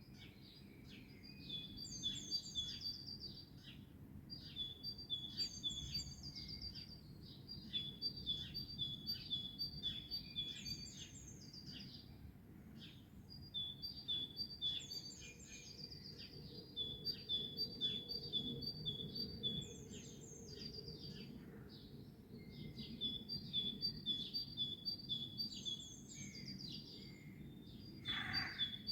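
Songbirds singing: one bird repeats a short phrase of quick high notes every few seconds, over a steady low background rumble. Near the end, a louder, lower call sweeps in pitch.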